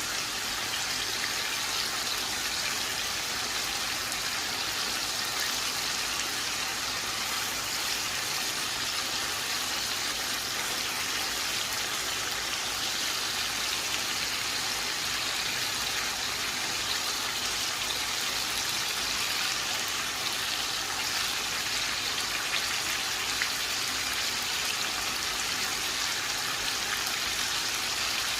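Chicken and tomatoes sizzling steadily in oil in a karahi over the heat, an even crackling hiss with no breaks.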